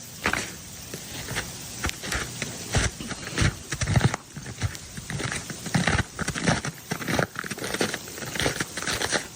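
Ice cracking and pattering in an ice storm: a rapid, irregular run of sharp cracks and clicks, several a second, the sound of ice-coated branches and falling ice.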